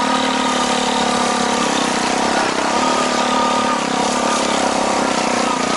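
A vehicle engine running steadily, its pitch rising and falling slightly, with a rushing noise underneath.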